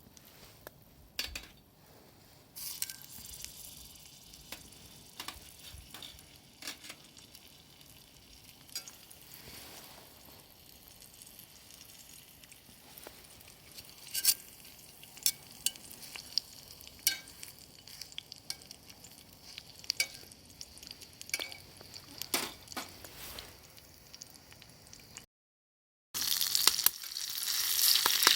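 Food frying in a pan on a fire stand: a steady sizzle with scattered sharp clicks and clinks of utensils. After a brief break near the end, the sizzling comes back much louder.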